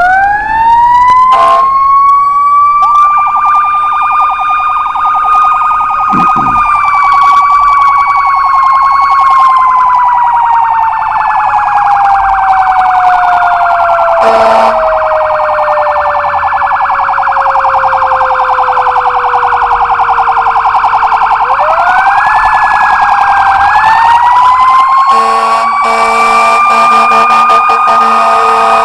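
Fire apparatus sirens. A mechanical siren winds up quickly, holds its top pitch, winds down slowly over about fifteen seconds, then winds up again. An electronic siren cycles rapidly alongside it, and a low steady tone joins near the end.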